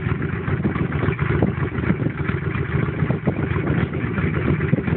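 Motorcycle engine idling with a steady, rough rumble, close by.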